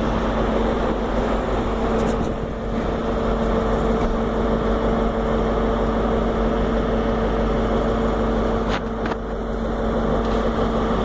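Diesel train engine idling at a station platform, a steady hum with a constant pitch that neither rises nor falls.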